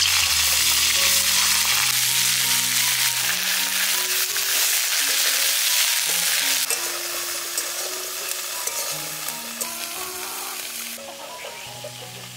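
Cauliflower florets sizzling loudly in hot oil in a wok, the hiss easing off after about seven seconds as they fry.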